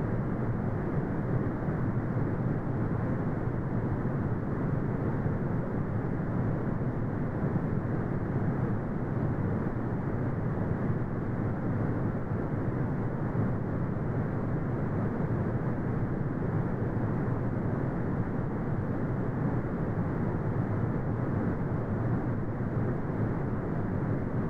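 Brown noise: a steady, deep rushing hiss with most of its energy low down and nothing in the treble, unchanging throughout.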